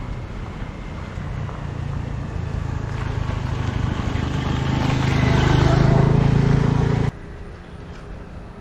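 Motor vehicle engine humming along with road and wind noise, growing steadily louder over several seconds, then cut off abruptly about seven seconds in.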